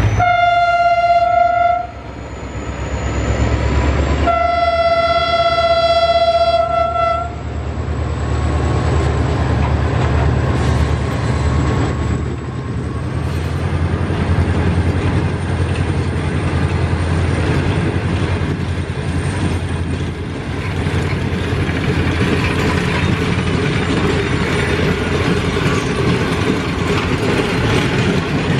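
Diesel locomotive horn sounds two single-note blasts, a short one and then a longer one of about three seconds, as the HGMU-30 pulls the train out. After that the passenger coaches roll past with a continuous low rumble and rattle of wheels on the rails.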